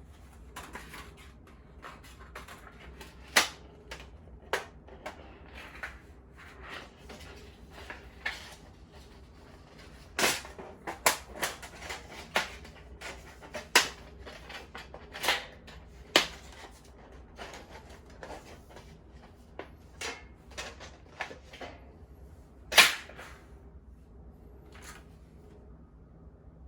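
Irregular sharp clicks and knocks of hard objects being handled, scattered across the stretch, with the loudest near the start, a cluster in the middle and one big knock near the end.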